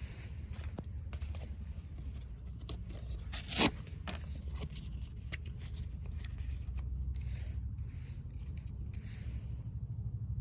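Wood fire crackling in a small fire stand, with scattered irregular pops and one loud sharp snap about three and a half seconds in, over a steady low rumble.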